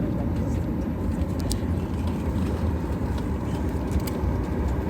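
Steady low rumble of cabin noise inside a Boeing 737 MAX 9 rolling on the ground after landing, with a couple of faint clicks.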